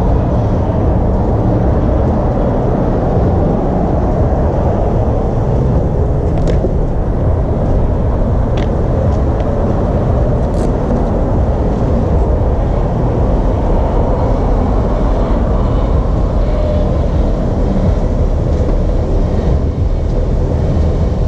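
Steady rush of wind buffeting the microphone during a bicycle ride, with a few faint ticks around the middle.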